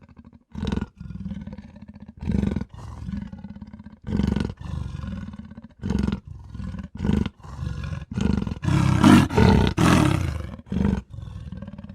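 Big-cat snarl and roar sound effects: a string of short, harsh snarls about one a second, loudest and longest about nine to ten seconds in.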